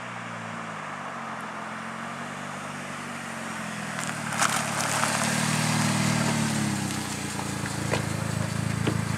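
Chevrolet Cobalt SS flying past at around 140 mph: its engine note swells as it approaches, is loudest about five to six seconds in, drops in pitch as it goes by, then falls back. A sharp click about four seconds in and a few more near the end.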